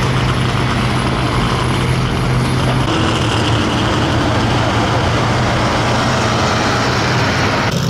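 Super stock pulling tractor's engine running loud and steady at high revs during a pull, its tone shifting about three seconds in.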